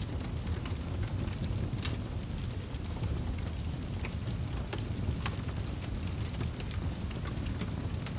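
Wood fire crackling: a steady low rumble of burning logs with frequent small, sharp pops and snaps scattered at random.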